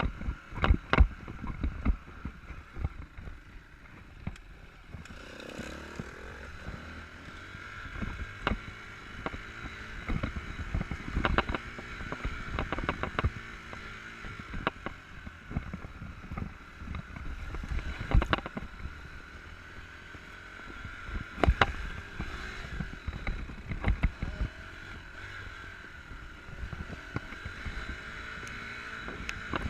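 Enduro dirt bike engine running steadily under wind buffeting on the microphone, with frequent sharp knocks and thumps from riding over rough ground.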